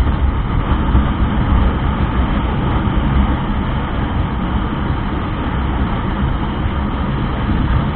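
Motorcycle on the move: steady engine and road noise mixed with wind rumble on the mic.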